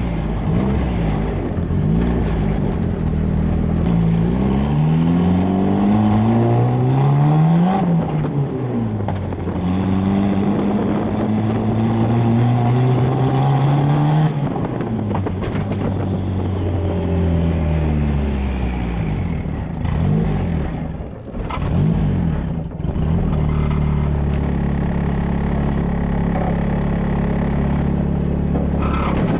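Turbocharged SR20DE 2.0-litre four-cylinder in a Nissan Sentra being driven hard. The engine pitch climbs and falls back again and again as it pulls through the gears, with a brief lift-off about two-thirds of the way in, then holds a steady pitch near the end.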